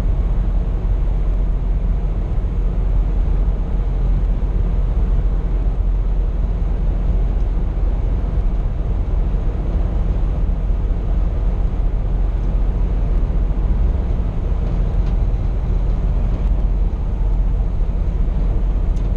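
Steady low drone of a Scania P420 truck on the move, heard inside the cab: engine and road noise with no change in pitch.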